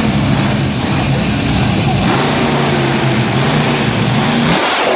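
Monster truck engine running loud over the din of the arena. Its pitch climbs slightly from about halfway through, and its low rumble cuts out just before the end.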